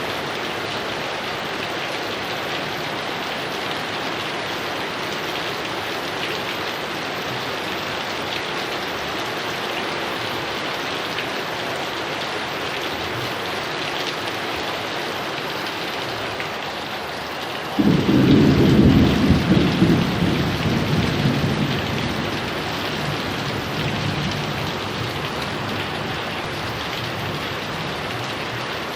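Heavy rain falling steadily, with a loud thunderclap breaking about two-thirds of the way in and rolling away as a rumble over several seconds.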